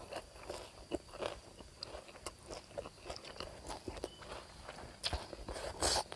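Close-up eating sounds of someone chewing a mouthful of khanom jeen rice noodles with fresh vegetables: wet chewing, smacking and crunching in quick, irregular clicks, with a louder burst near the end.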